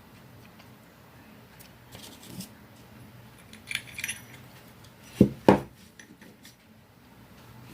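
Small metal clinks and taps from a hand-operated canning lid seamer being handled. Two sharp knocks come close together a little after five seconds in.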